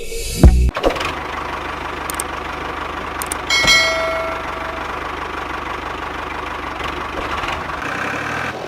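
Small motor of a miniature DIY tractor running steadily, with a fast, even chugging pulse. A thump sounds just after the start, and a metallic clink with brief ringing about three and a half seconds in.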